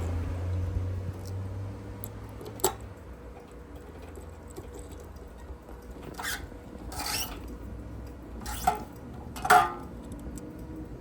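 Honda XL230 single-cylinder engine rumble dying away over the first few seconds. Then five sharp metallic clinks, the loudest two near the end, over a faint low hum.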